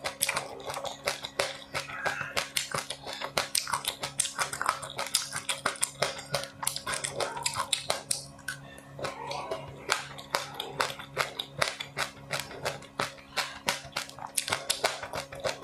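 Close-up crunching and chewing of crisp seed and rice crispy snacks: dense, irregular crackles and crunches over a steady low hum.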